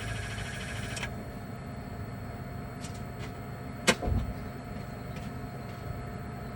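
MG4 EV air-conditioning fan making its fault noise, a pulsing, warbling drone that stops about a second in, leaving a steady hum with a faint tone. The owner takes the noise for a factory fault in the fan that varies with the air con's speed. A single sharp click about four seconds in is followed by a short low thump.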